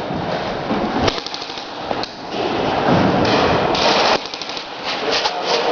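Airsoft guns firing rapid full-auto bursts of quick clicks, one burst about a second in and another near the end, over a loud rushing noise.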